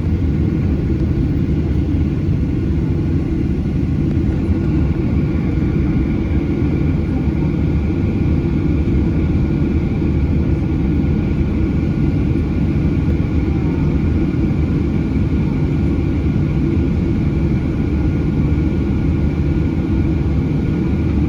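Boeing 737-800's CFM56 jet engines running steadily, heard inside the passenger cabin as an even, deep roar with a faint steady whine above it.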